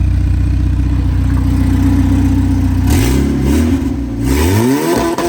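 A car engine running steadily, then revved, its pitch rising and falling over the last couple of seconds. It starts abruptly.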